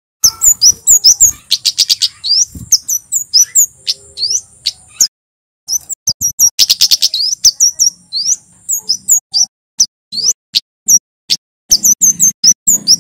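A male kemade jawa singing: a rapid, loud run of sharp, high chirps over a thin, high trill, with a brief pause about five seconds in.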